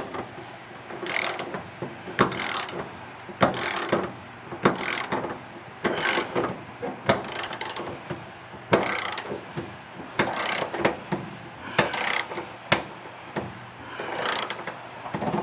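A ratchet being worked to tighten something, clicking in repeated strokes, roughly one stroke every second or so.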